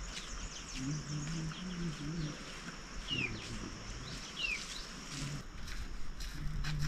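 Outdoor village ambience: a bird gives two short falling chirps a little over a second apart, over a steady high-pitched buzz and faint voices in the background.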